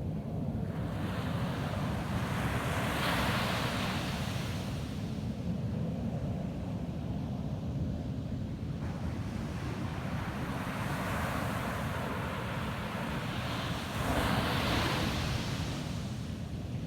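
Ocean waves breaking on a beach: two swells of surf rise to a hissing wash and fade away, one a few seconds in and a louder one near the end, over a steady low rumble.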